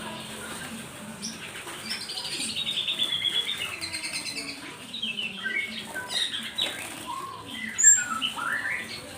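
Small songbirds chirping and squeaking: a rapid descending trill a couple of seconds in, then scattered short chirps and rising squeaky notes, with one sharp loud note near the end.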